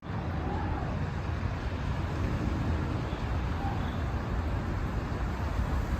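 Steady outdoor background noise with a strong low rumble and hiss, starting abruptly, with a few faint short bird chirps over it.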